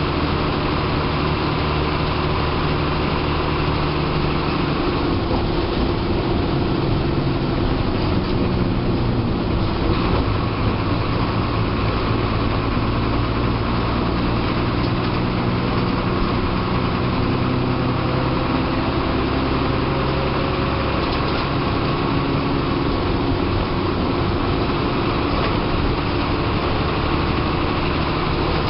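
Diesel engine of a TSRTC bus running under way, heard from the driver's cabin. It hums steadily, and its pitch shifts a few times as the engine speed changes.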